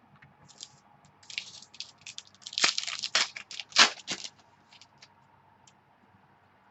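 Trading cards and their plastic sleeves or holders being handled: a quick run of crinkling, scraping and tapping sounds over about four seconds, loudest around three to four seconds in, then quiet.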